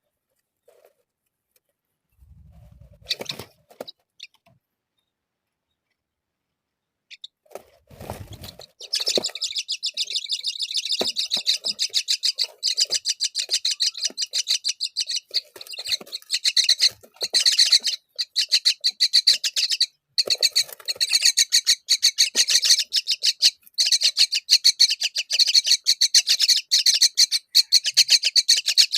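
Myna chicks begging for food: a rapid, unbroken run of high chirps, many per second, starting about nine seconds in. A few soft knocks and rustles come before it.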